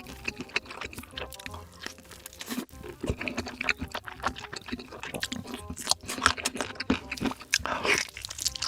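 Close-miked eating of sausages: biting and chewing, with a dense run of short, irregular wet clicks and snaps that grow busier in the second half.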